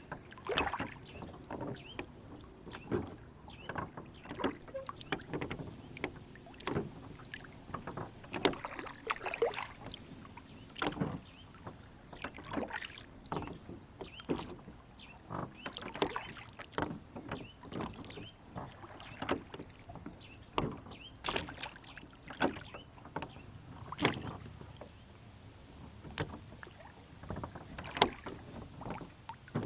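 Rowboat on a lake: small slaps and splashes of water against the hull, with irregular knocks and creaks from the boat and its oars, one every second or so.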